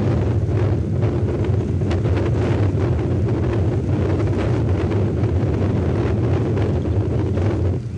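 Wind buffeting the nest camera's outdoor microphone in a snowstorm: a steady low rumble that dips briefly near the end.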